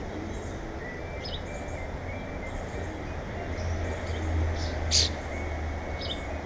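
Small songbirds giving short, sharp chip calls, the loudest about five seconds in, over a steady low rumble of distant traffic that swells in the middle.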